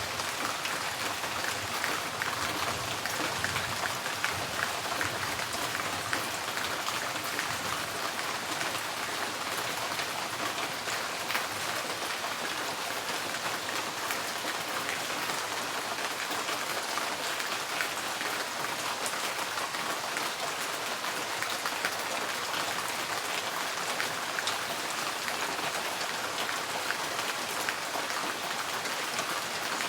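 Steady rain drumming on a tin porch roof, a dense patter of drops with fine individual ticks throughout.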